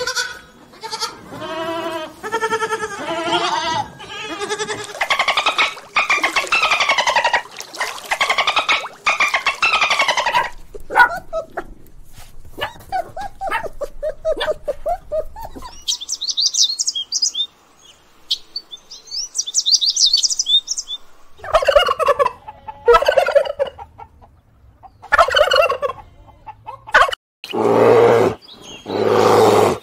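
A series of poultry calls, mostly turkey-like gobbling and other fowl calling, with small birds chirping high-pitched for a few seconds around the middle.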